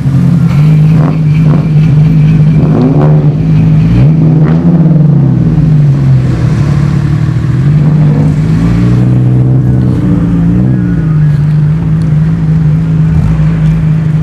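Car engine idling loudly, its pitch rising and falling as the throttle is blipped a few times in the middle of the clip.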